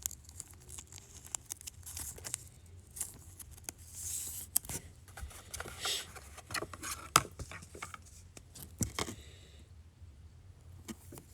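Trading cards being handled: scattered light clicks, taps and rustles, with short brushing sounds about four and six seconds in.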